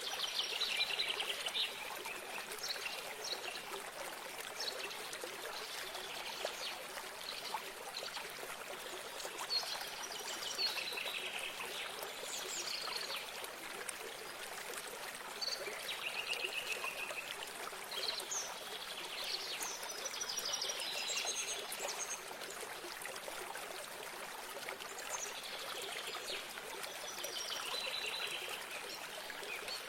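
A small stream of water trickling and splashing steadily, with songbirds singing short chattering phrases every few seconds over it.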